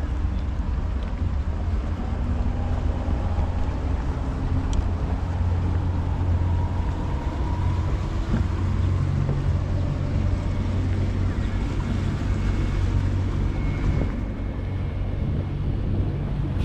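Motorboat engine running steadily with the boat under way, a constant low rumble, with wind blowing on the microphone.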